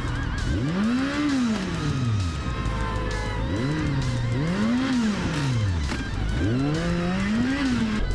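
An engine revved up and back down three times, each rev rising and then falling in pitch, over background music.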